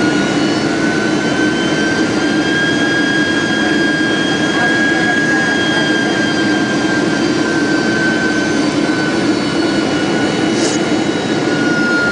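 Steady cabin drone of a Boeing 767-400's jet engines in flight, a dense roar with a high steady whine over it that wavers slightly in pitch.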